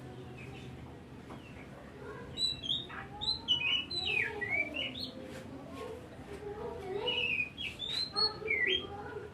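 Oriental magpie-robin (kacer) singing: a varied run of whistled notes and quick chirps that slide up and down in pitch, sparse at first and turning continuous about two seconds in.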